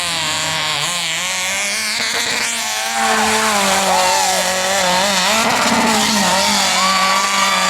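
Mud-bog race truck's engine revving hard under load, its pitch surging up and down as the throttle works. It gets louder about three seconds in.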